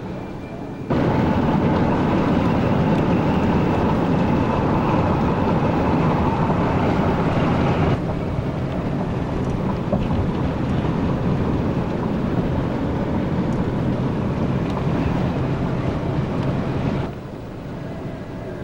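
Loud, steady rush of wind and road noise inside a moving car. It comes on suddenly about a second in, eases slightly around eight seconds, and drops off sharply near the end.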